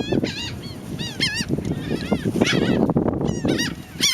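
A flock of gulls calling, many short squawking calls overlapping one another in quick succession.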